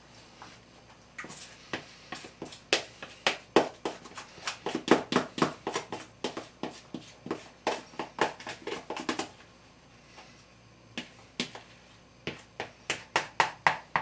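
A spoon scraping and clicking against a bowl in quick repeated strokes, about three or four a second, as chicken salad is stirred and scooped; the strokes pause for a couple of seconds and then start again.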